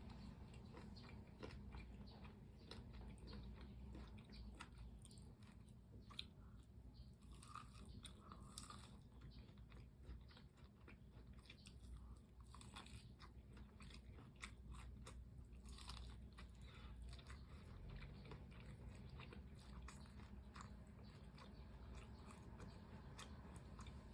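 Crunchy fried chicken being bitten and chewed close to the microphone: quiet, irregular crackling crunches with wet mouth sounds.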